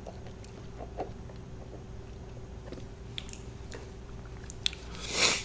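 Close-up mouth sounds of a person eating fried food: soft chewing with small wet clicks over a low steady hum. Near the end comes a louder rush of noise lasting about half a second.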